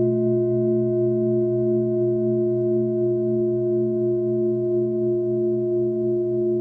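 Singing bowls ringing in a long, steady sustain: several tones held together, the lowest ones swelling and fading in a slow, even pulse.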